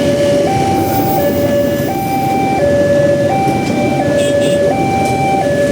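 Railway level-crossing warning alarm sounding a two-tone hi-lo signal, switching pitch about every 0.7 seconds, over a steady low rumble.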